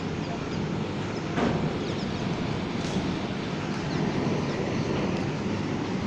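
Train moving along the track: a steady rumble, with a brief knock about one and a half seconds in and another near the three-second mark.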